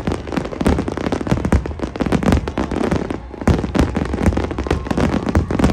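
Large fireworks display: a dense, continuous barrage of bangs and crackles, many per second, easing briefly about three seconds in.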